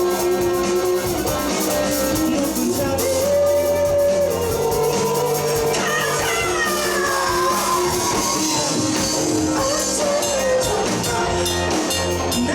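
Live rock band playing: two guitars, bass guitar and drum kit, with sustained guitar lines and a long falling bend or slide about halfway through.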